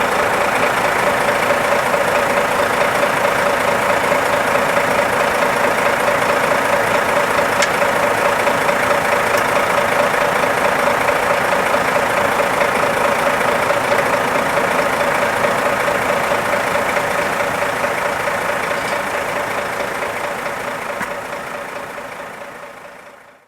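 Engine of an IVECO/Astra 8x8 recovery truck idling steadily, with a constant droning tone. It fades out near the end.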